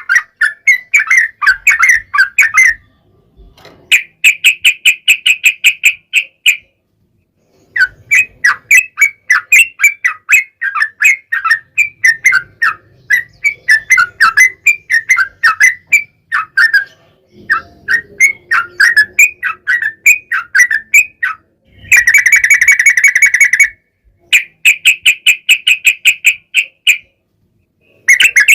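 Yellow-vented bulbul (trucukan) song: loud, fast chattering and bubbling phrases in runs of several seconds with short pauses between them, including long, rapid, buzzy trills ("ropel panjang") about two-thirds of the way through and again at the end.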